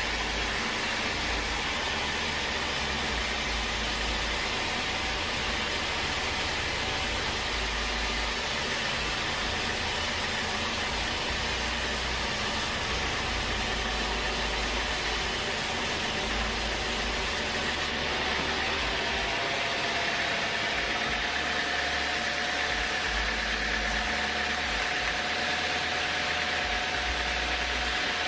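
Sawmill machinery running steadily with a dense mechanical noise. About two-thirds of the way through the hiss thins out and a steady humming tone comes in.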